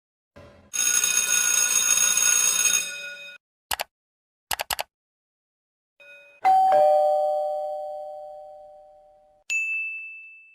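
A string of separate sound effects: a ringing, hissy sound lasting about three seconds, a click and then three quick clicks, then a two-tone doorbell "ding-dong", high note then low, fading slowly over about three seconds. A short high ding comes near the end.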